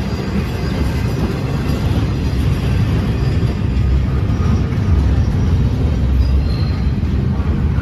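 Train rolling past close by: a steady, loud low rumble of wheels on the rails, with faint high squealing tones above it.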